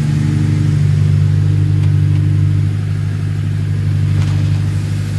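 Race car engine running on six-month-old E85, warming up after a cold start, with a steady, even note that drops slightly in loudness about two and a half seconds in.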